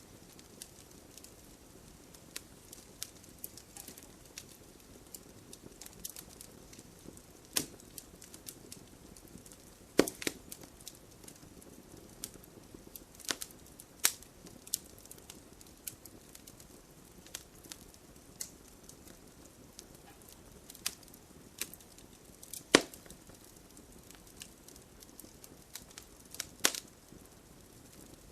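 Campfire crackling: irregular sharp pops and snaps of burning wood over a low steady hiss, with a few louder pops.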